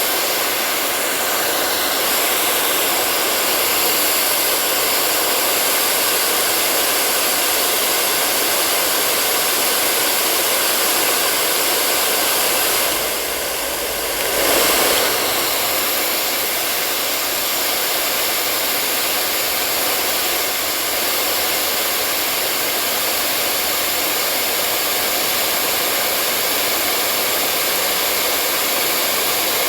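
Hair dryer blowing steadily: an even rushing hiss of air with a faint steady motor whine. About halfway through it briefly drops, then swells back up.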